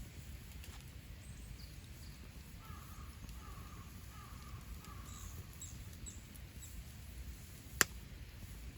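Campfire burning with a single sharp pop of wood near the end, over a low steady rumble. Birds call faintly in the background through the middle.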